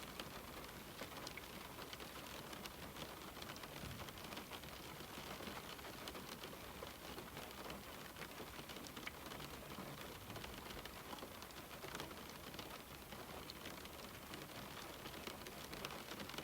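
Steady rain falling on a window pane: an even hiss of rain filled with a dense patter of individual drops ticking against the glass.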